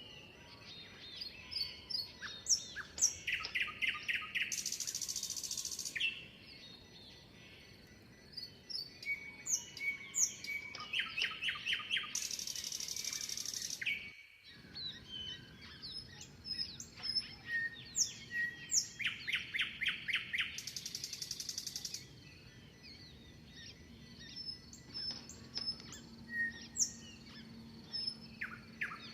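Songbirds chirping and singing, with short whistled calls and a quick trill of about six notes that comes back about every eight seconds. Each trill is followed by a brief high buzz, so the recording repeats as a loop.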